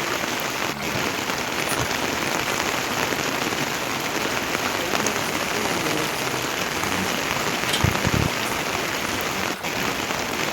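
Heavy rain falling steadily and densely, with a brief low thud about eight seconds in.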